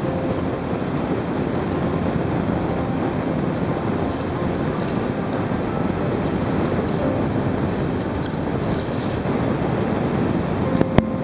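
Steady rushing and churning of a small waterfall cascade, heard through a camera held in and just at the surface of the water, a dense rumble. A brighter hiss of splashing joins in the middle, and two sharp knocks come near the end.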